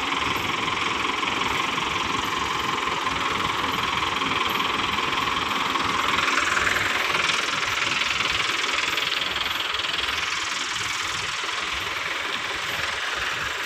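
Heavy diesel engines running steadily, the truck and tractors at work on the recovery, briefly a little louder about six seconds in.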